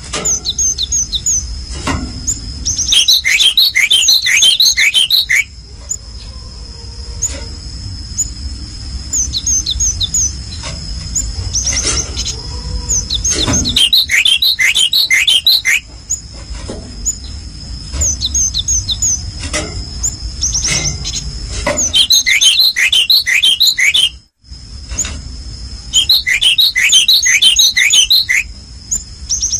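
A small songbird calling in four bursts of quick, high, falling notes, each lasting a couple of seconds, over a steady high-pitched whine. The sound cuts out for a moment near the end.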